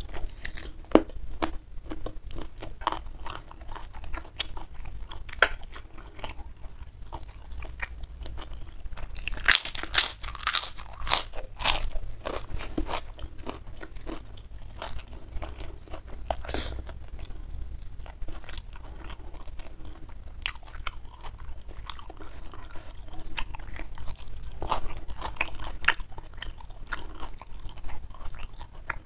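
Close-miked mouth sounds of a person chewing food: a steady run of wet, irregular clicks and crunches, with a denser, louder spell of crunching about ten seconds in.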